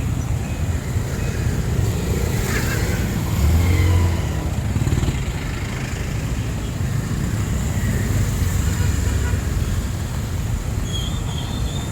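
Street traffic: cars and motorcycles running past, with a louder low rumble as a vehicle passes close about four seconds in.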